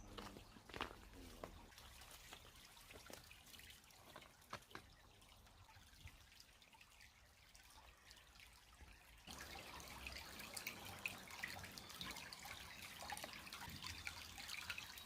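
Faint trickling and dripping of creek water, with scattered small drips. It turns a little louder and fuller about nine seconds in.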